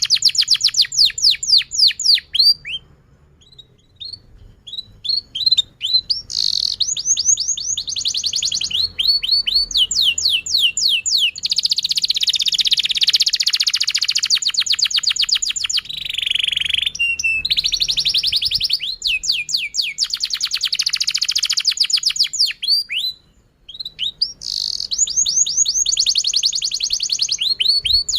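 Domestic canary singing long, fast trills of repeated falling high notes, with a few seconds of scattered single chirps near the start and a brief pause near the end.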